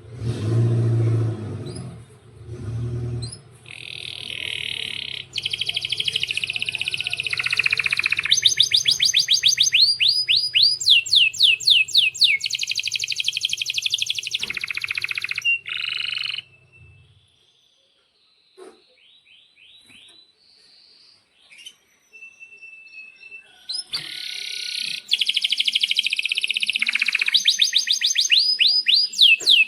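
Male domestic canary singing long, loud phrases of rapid trills and rolls with sweeping notes, the song style used as a master recording to teach young canaries. The song stops about 17 s in, leaving a few soft chirps, and resumes about 24 s in. Two brief low sounds come in the first three seconds.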